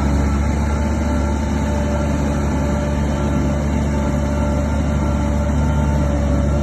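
Bulldozer's diesel engine running steadily under load: a deep, constant drone with a steady whine above it and the rumble of heavy machinery.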